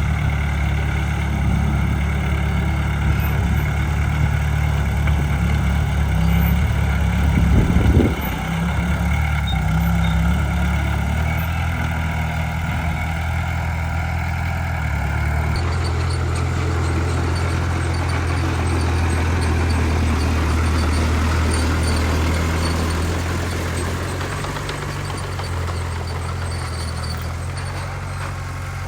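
Heavy diesel earthmoving machinery running steadily, with a brief louder surge about eight seconds in and an abrupt change in the engine sound about halfway through.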